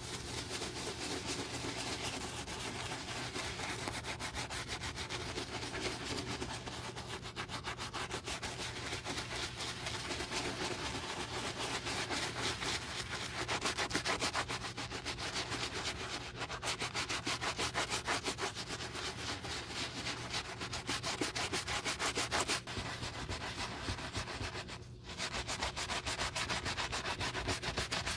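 Rapid, even back-and-forth rubbing strokes on a cowboy boot being restored, with a brief pause near the end.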